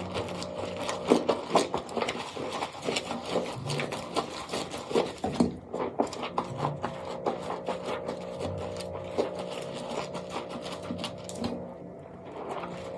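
Soap crackling and crunching under handling: a dense, irregular run of crisp clicks and scrapes.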